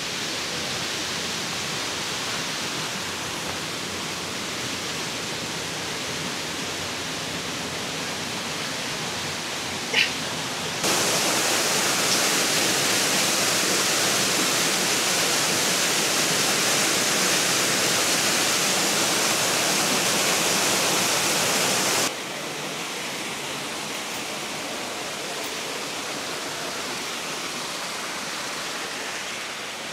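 Steady rush of a waterfall in a gorge, an even hiss of falling water that jumps louder about a third of the way in and drops back about two-thirds through.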